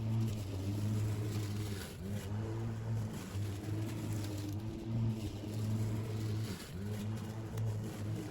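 Battery lawn mower running while cutting grass: a steady motor-and-blade hum that sags in pitch briefly about three times.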